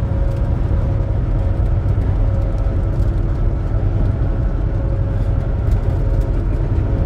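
Steady low rumble of a semi-truck driving at road speed, engine and tyre noise heard inside the cab, with a faint steady hum running under it.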